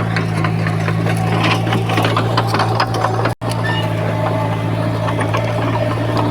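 Diesel engine of heavy earthmoving machinery running steadily, with scattered clanks and knocks over the drone. The sound drops out for an instant about halfway through.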